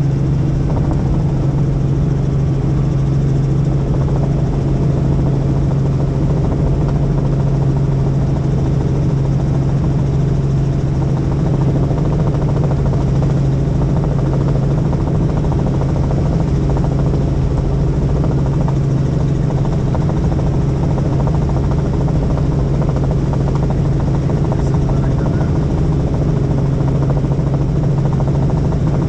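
Helicopter in steady flight: an even, unchanging drone with a strong low hum from the rotor and engine.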